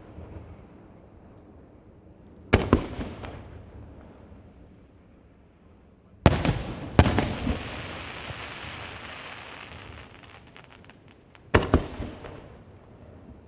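Aerial firework shells bursting: four loud booms, each rolling off in an echoing rumble. The third is followed by a long crackling, sparkling tail that ends in a flurry of small pops.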